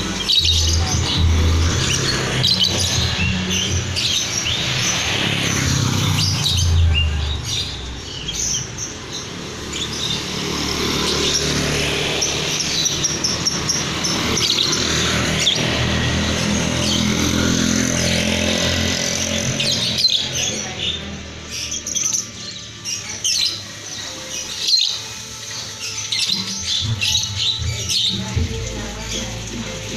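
Lovebirds chirping and chattering in short, shrill calls, over background music.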